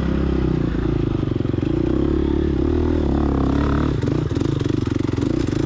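A GasGas EX250F's 250 cc four-stroke single-cylinder dirt-bike engine runs steadily under throttle. It eases off briefly about four seconds in, then picks up again.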